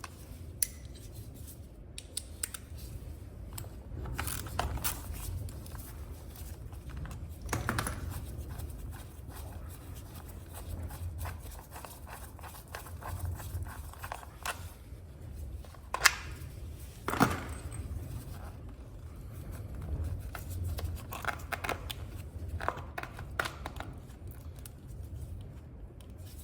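Hand tools and metal parts clicking and scraping while a motorcycle's front sprocket cover is unbolted from its studs and worked off. Scattered light clicks throughout, two sharper clacks a little past the middle, over a steady low hum.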